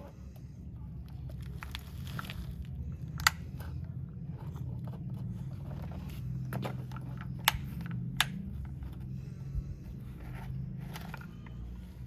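Toy excavator scraping and scooping soil, with gritty crunching and scraping over a steady low rumble. Three sharp plastic clicks stand out, the first about three seconds in and two more close together past the middle.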